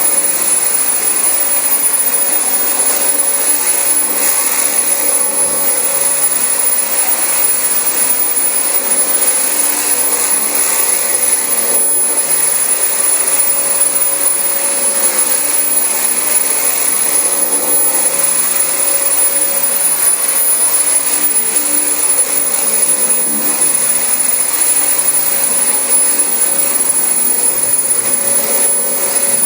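Dyson DC25 bagless upright vacuum cleaner running steadily on carpet: an even, loud rush of motor and suction with a steady high whine.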